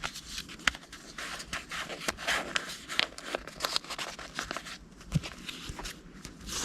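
Paper index cards being handled and shuffled: irregular rustling with many small clicks and taps.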